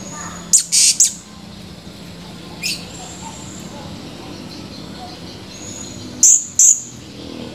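Blue-crowned hanging parrot (serindit) giving short, sharp, very high-pitched calls: three in quick succession near the start, a single one about a third of the way in, and two close together near the end.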